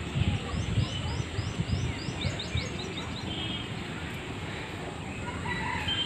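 Birds calling: a quick run of about eight high, falling notes in the first half, then a few short steady whistled notes, over a low rumble of wind on the microphone.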